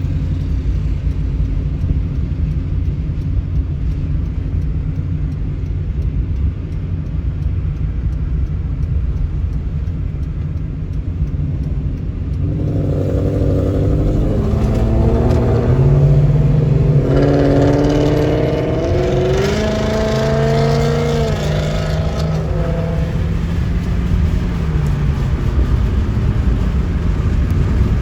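Ford Mustang GT's V8 engine rumbling loudly at a steady low pitch, then from about halfway through revving up in rising steps as the car accelerates, before settling back to a low drone near the end.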